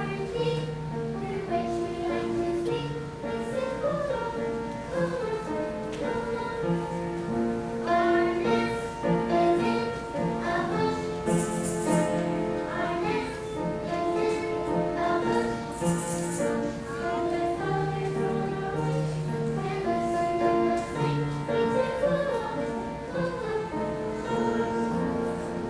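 Music: a song with children's voices singing over instrumental accompaniment.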